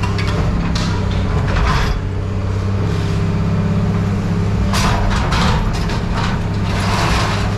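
Heavy machine engine running steadily while scrap metal clanks and rattles several times, with a cluster of crashes in the second half.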